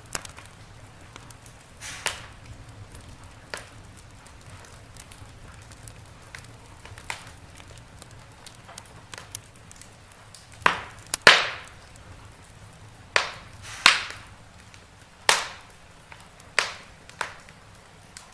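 Wood fire in a fireplace crackling: irregular sharp pops and snaps over a faint steady low background, with the loudest pops coming about two thirds of the way through.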